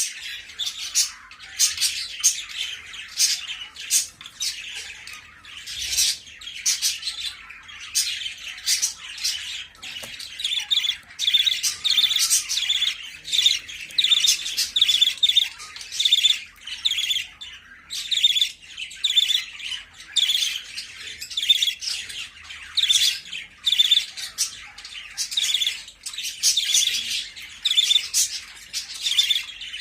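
Budgerigars chattering: a continuous stream of short chirps and squawks.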